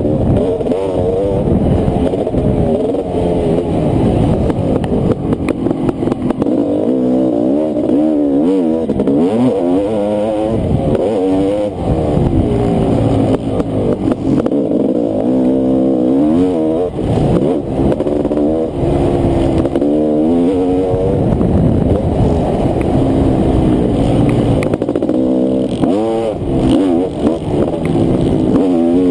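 Honda CR500 two-stroke single-cylinder motocross engine racing: the pitch climbs and falls again and again as the throttle is opened and shut and gears change, with short dips in level between the pulls.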